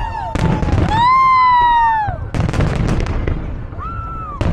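Fireworks going off: sharp bangs with crackling after them. Long high-pitched tones rise and fall between the bangs.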